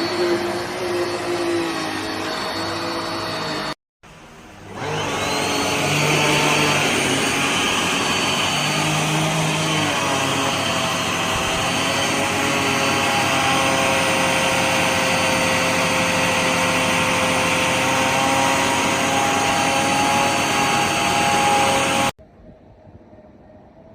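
JIMMY BX7 Pro dust-mite vacuum cleaner running with a steady motor whine. It stops abruptly about four seconds in, then spins up again with a rising whine and runs steadily until it cuts off suddenly near the end.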